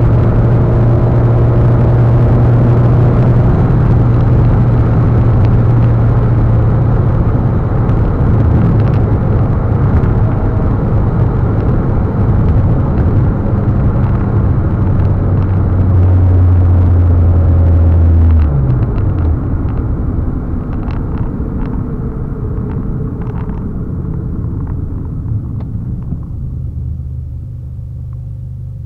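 Mitsubishi Lancer Evolution X's turbocharged four-cylinder engine cruising steadily, heard from inside the cabin over road and tyre noise. About eighteen seconds in, the engine note drops off sharply and the car goes quieter as it slows.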